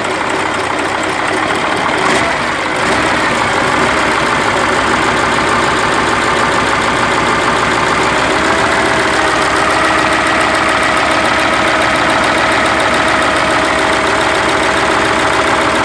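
KamAZ truck's V8 diesel engine running steadily at idle. A thin steady whine joins the engine sound about halfway through.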